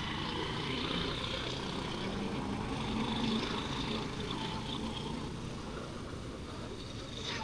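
Steady street traffic: motor vehicles running and passing, with no single sound standing out.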